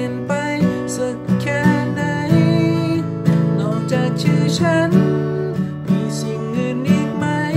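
A Thai pop song: strummed acoustic guitar with a sung melody over it.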